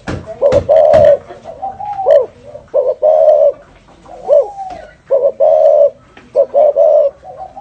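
Spotted dove (cu gáy) cooing over and over in the rolling 'thổ rền' style: a rhythmic run of low, hollow coos with short gliding notes between them. A few sharp clicks come in the first second.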